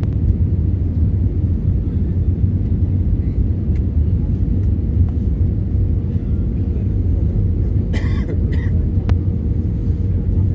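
Steady low rumble of a passenger airliner's cabin, with a faint steady hum over it and a brief rustle or clatter about eight seconds in.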